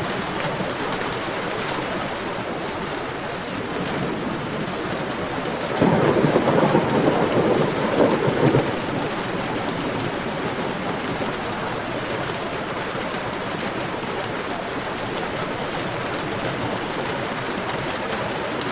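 Heavy rain falling steadily, with a sudden loud clap of thunder about six seconds in that rumbles on for nearly three seconds before the rain alone continues.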